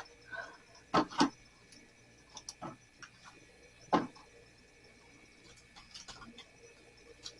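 A few sharp knocks and clicks of frozen food packages being handled and set down: two close together about a second in, and the loudest about four seconds in.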